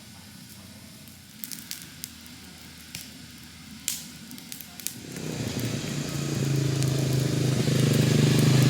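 A few scattered sharp clicks, then about five seconds in an ATV engine comes in and grows steadily louder as it approaches, running smoothly with a low, even note.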